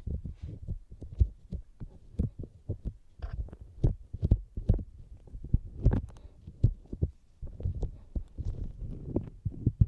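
Fingertips tapping on the outer ear of a binaural dummy-head microphone: an irregular run of soft, low thuds, some with a crisp click on top.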